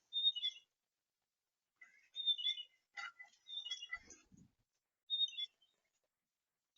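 Small songbird chirping in four short bursts of high calls, with a few knocks and a low thump on the feeder near the middle.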